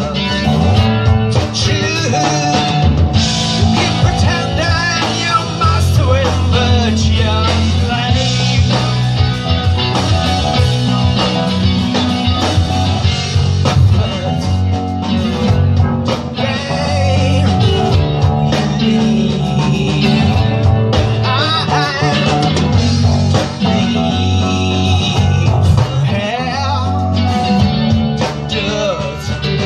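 Live rock band playing: electric guitar, bass and drums with singing, a bluesy rock song.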